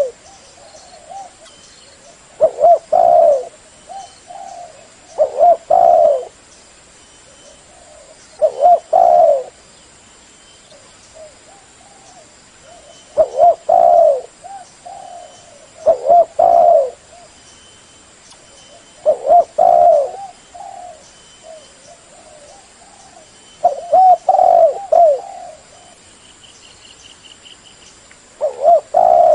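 Spotted dove cooing loudly, repeating its short phrase of low coos about every three seconds.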